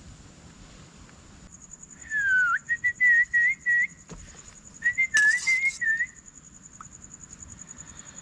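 A person whistling a short tune in two phrases: a falling glide, then a run of short notes, a pause, and a second run. Crickets chirp steadily behind.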